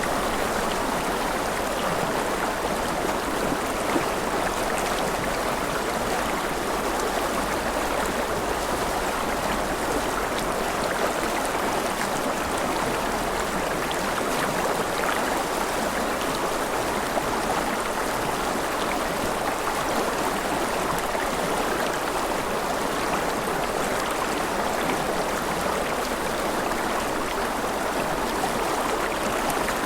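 A river flowing steadily over stones, a continuous even rush of water with small splashes and gurgles.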